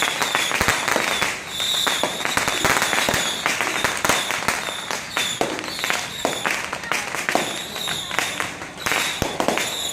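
Strings of firecrackers going off: dense, irregular crackling pops with no let-up, mixed with crowd voices.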